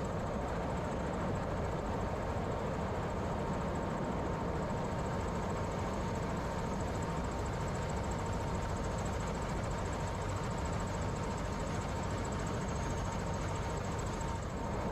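Helicopter in flight, steady engine and rotor noise with a thin, steady whine running through it, heard from inside the cabin.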